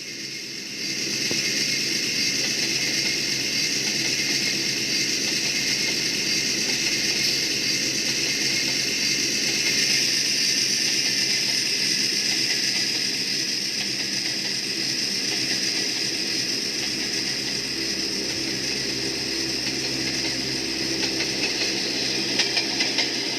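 An engine or motor running steadily, with a steady hiss over it; the sound comes in about a second in.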